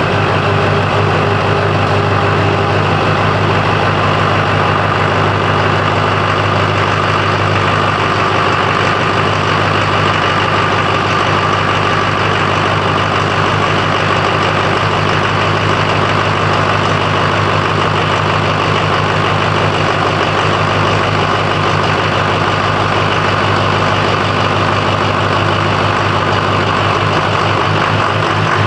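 LB7 Duramax 6.6-litre V8 turbo-diesel idling steadily, freshly started.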